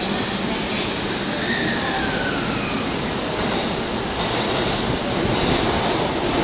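E531 series electric train pulling slowly away from the platform: a steady running noise of wheels and running gear, with a faint falling whine early on.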